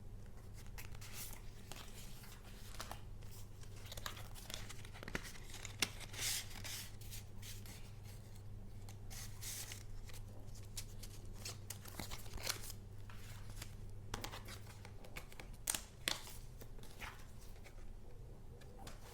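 Paper and paper goods being handled: irregular rustling and crinkling, with a few sharper rips and taps. A low steady hum sits underneath and stops about fifteen seconds in.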